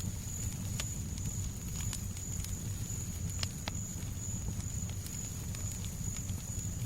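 Crackling fireplace: a steady low rumble of burning wood with sharp crackles and pops at irregular moments, over a steady high-pitched whine.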